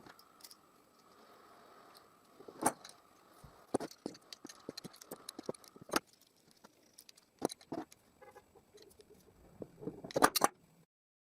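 Small steel washers and nuts clicking and clinking as they are handled and fitted onto the threaded ends of a pipe shaft. The clicks are scattered at first, come as a quick cluster of sharper clinks near the end, and then the sound cuts off suddenly.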